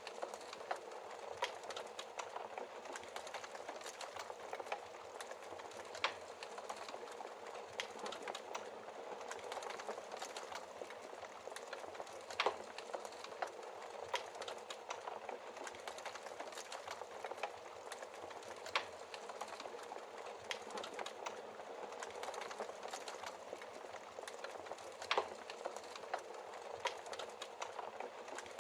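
Wood fire crackling in a fireplace: a steady soft hiss with many small crackles and a few louder pops every several seconds.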